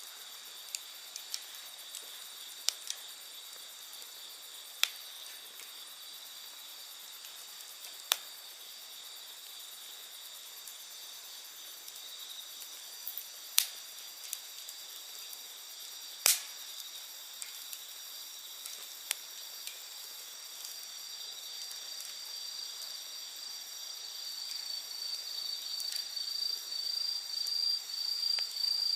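Campfire wood crackling with scattered sharp pops, the loudest a little before and after the middle, over a steady high chorus of insects. One insect's pulsing trill grows louder over the last several seconds.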